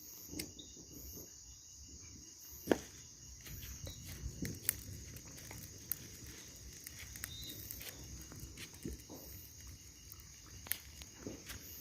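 Steady high chirring of insects, with scattered light clicks and a sharp knock nearly three seconds in.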